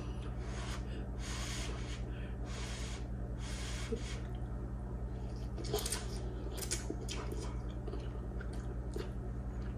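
Someone eating noodles: soft slurping and chewing with a few sharp clicks, over a steady low electrical hum.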